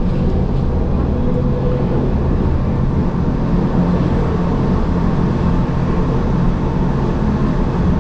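Gornergrat Bahn electric rack-railway train running downhill, heard from inside the passenger car: a steady rumble with a low hum underneath.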